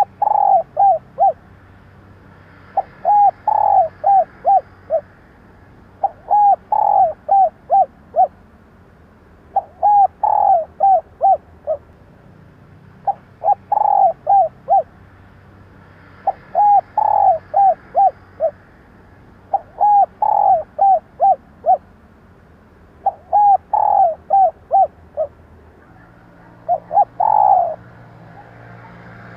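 Female spotted dove cooing: a repeated phrase of one longer note followed by three or four short, quick coos, given about every three seconds, nine times.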